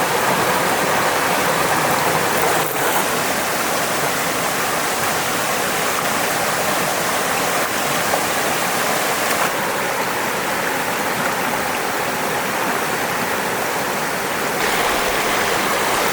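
Fast-flowing mountain stream rushing over rocks, a steady loud rush of water; its tone shifts slightly a few times.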